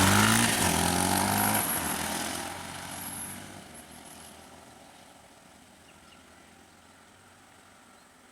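A motor vehicle engine running with a low, steady hum that fades away over the first four seconds, leaving only faint background noise.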